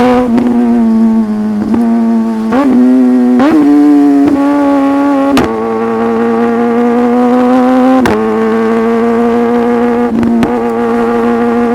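Superbike engine running at a steady high pitch while riding, with two short rises in pitch about two and a half and three and a half seconds in, and brief sharp dips in the note several times.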